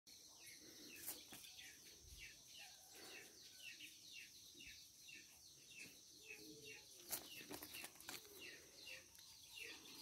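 Faint bird chirping: a quick, even series of short falling chirps, about two or three a second, over a faint steady high tone.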